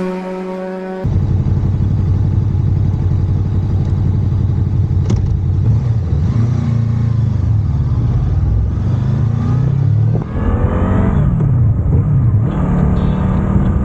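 Motorcycle engine running while riding, its revs rising and falling several times as it accelerates and shifts. It starts abruptly about a second in.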